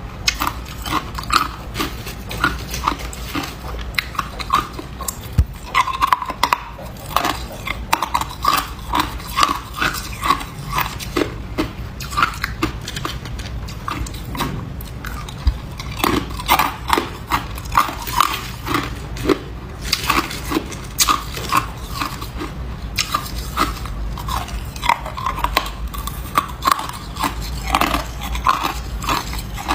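A person biting and chewing ice: a quick, irregular run of sharp crunches, several a second.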